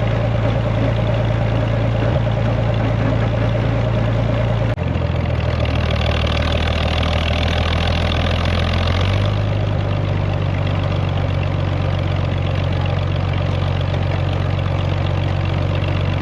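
Old farm tractor engine running steadily. Its low note steps to a different pitch about five seconds in and again about nine seconds in, with a rushing hiss over it between those two changes.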